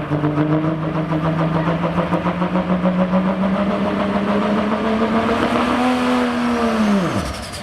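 Pickup truck engine at full throttle pulling a sled, its pitch climbing slowly under load, then falling steeply about seven seconds in as the throttle is released and the truck comes to a stop.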